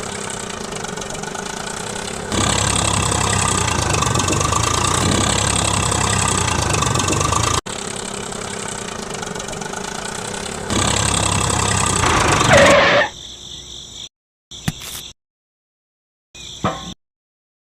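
A small motor running steadily. It gets louder about two seconds in, breaks off abruptly halfway through and starts again, then stops about three-quarters of the way in. Short scattered sounds follow, separated by dead silence.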